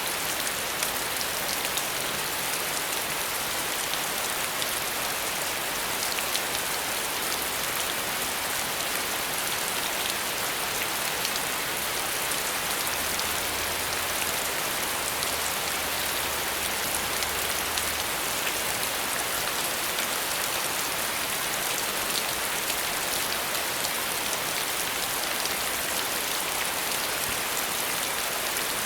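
Steady rain falling and pattering on a surface, an even hiss of countless drops.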